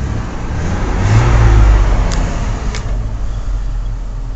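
Ford 300 straight-six engine of a 1992 F-150 running, swelling in a brief rev about a second in and settling back to idle.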